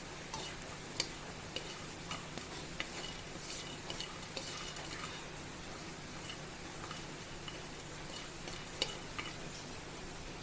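Whole spices (star anise, cinnamon, cloves and peppercorns) frying in a pan as they are stirred: a faint, steady sizzle with scattered light clicks.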